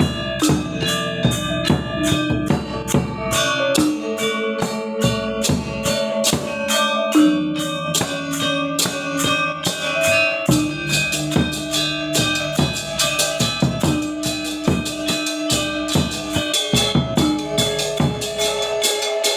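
Balinese gamelan gong ensemble playing: rapid, dense metallic strikes over ringing, sustained bronze tones, with drum beats underneath.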